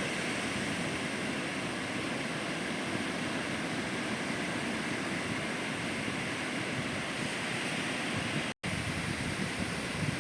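Ocean surf breaking on a beach, a steady, even wash of noise without separate crashes. The audio drops out for an instant about eight and a half seconds in.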